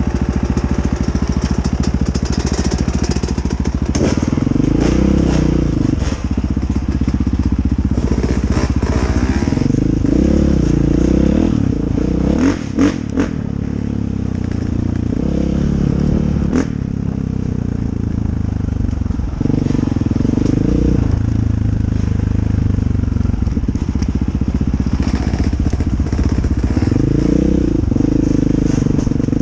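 Dirt bike engine under way on a woods trail, revving up and dropping back over and over as the throttle is worked. A few sharp knocks and clatters come about halfway through.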